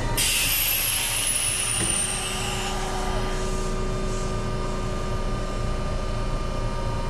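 Kintetsu 22000 series ACE electric train coming to a stop at a platform. A sudden hiss of air from the brakes comes with a high whistle that falls in pitch over about two and a half seconds. Then the standing train's steady electrical hum, several even tones, carries on.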